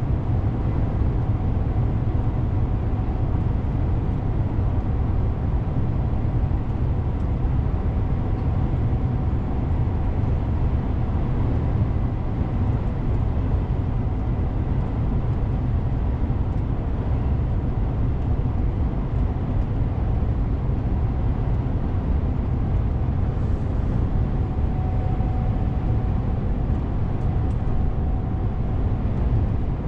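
DAF CF 450 truck's six-cylinder diesel and road noise while driving: a steady low rumble with no sudden changes.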